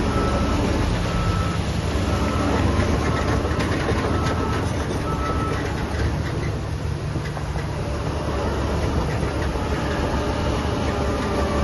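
Heavy diesel construction machinery running with a steady low rumble, while a reversing alarm gives a row of short, evenly spaced beeps that stop about halfway through.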